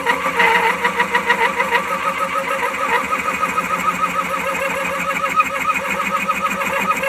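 Wood lathe running with a boring head taking a light cut inside a maple handle held in a steady rest, with a steady squeak that wavers about five times a second.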